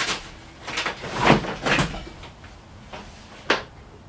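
A series of knocks and clunks of things being handled and set down. The loudest comes about a second and a half in, and one sharp knock falls near the end.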